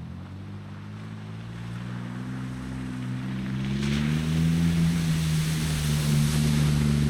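A Jeep's engine pulling away, its pitch rising over the first four seconds or so and then holding steady. Road and wind noise grow louder with it.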